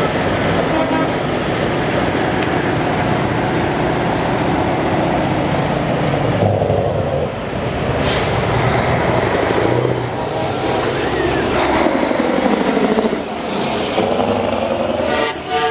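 Heavy diesel trucks driving past, their engines running, with a brief hiss about halfway through.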